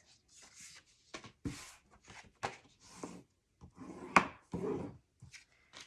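Scored cardstock being folded and creased by hand: irregular paper rustling and rubbing, with a few sharp clicks, the loudest about four seconds in.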